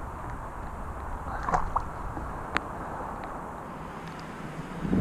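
Steady wind and shallow sea water noise on the microphone, with a few sharp clicks and a brief tone about one and a half seconds in.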